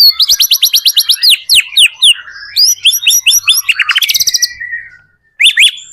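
White-rumped shama (murai batu) in full song: rapid, varied phrases made of fast runs of sharp, rising whistled notes. There is a short pause about five seconds in, then two more notes near the end.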